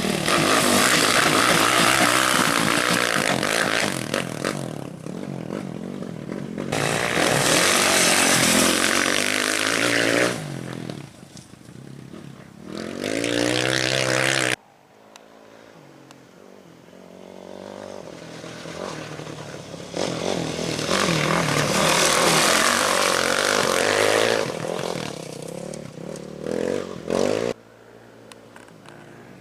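Off-road race vehicles' engines revving hard as they pass one by one through a curve, about five pass-bys that each swell and fade, the pitch rising as one accelerates away. Twice the sound cuts off suddenly.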